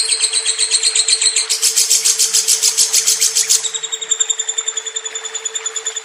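Lovebird ngekek: one long, unbroken high-pitched chattering trill of about eight notes a second, growing louder and shriller from about a second and a half in until nearly four seconds in. A steady hum runs underneath.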